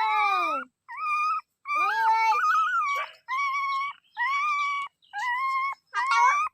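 Dog whining: a string of about seven high, drawn-out whines, each under a second long, with short gaps between them.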